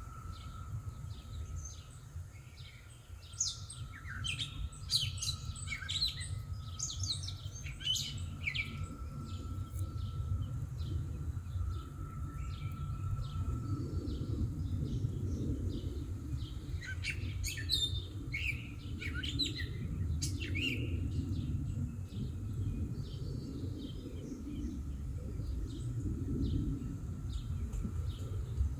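Songbirds chirping in two spells of quick calls, about four seconds in and again around eighteen seconds, over a steady low rumble and a faint steady tone.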